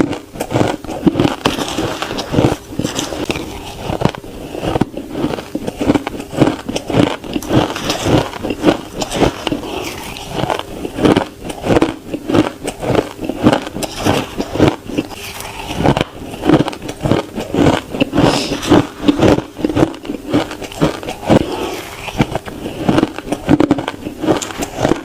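Ice being bitten and crunched between the teeth close to the microphone: rapid, irregular crisp crunches, several a second.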